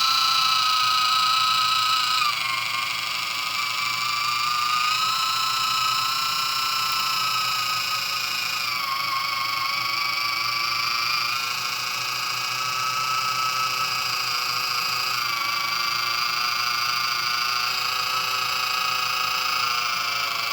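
One-touch hands-free electric can opener, its small motor whining steadily as it cuts its way around a can, with the pitch dipping briefly a few times.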